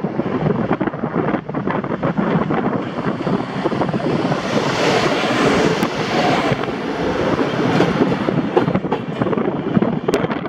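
EP09 electric locomotive hauling an express passenger train past close by, its wheels rattling on the rails, then the carriages rolling by. The sound swells as the locomotive passes about halfway through, and strong wind buffets the microphone throughout.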